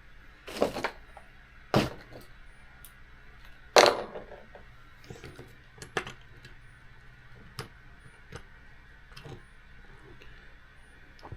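Small metal tools and RC car parts being handled on a workbench: a string of separate light metallic clicks and taps, the loudest nearly four seconds in.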